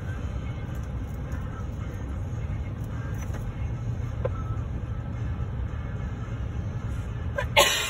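Freight train of tank cars rolling past, a steady low rumble of wheels on rail heard from inside a car's cabin. A short loud sound breaks in near the end.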